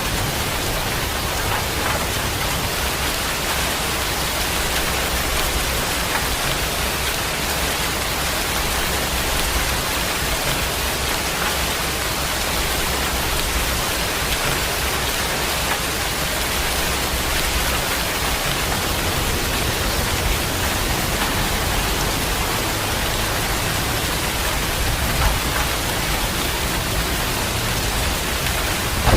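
Steady heavy rain pouring down, an even, dense hiss.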